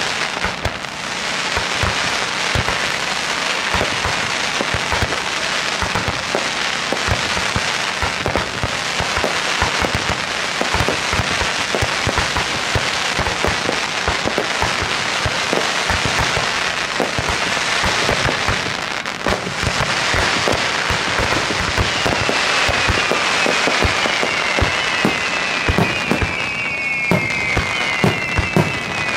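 Fireworks finale barrage: a dense, continuous run of bangs and crackling bursts with no pause. In the last third, several falling whistles overlap on top of the bangs.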